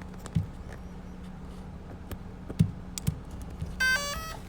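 Clicks and knocks of battery leads and connectors being handled and plugged in over a low steady hum, then near the end a quick run of electronic beeps stepping in pitch as the power comes on.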